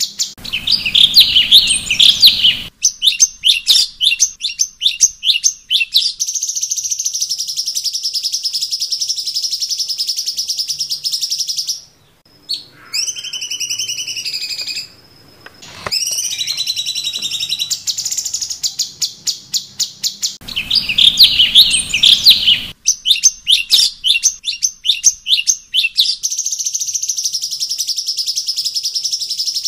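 Cucak cungkok (bulbul) song from a masteran track: fast runs of sharp repeated chirps, with a short break about twelve seconds in followed by a few sliding whistled notes. The phrases repeat like a loop, the opening run returning about twenty seconds in.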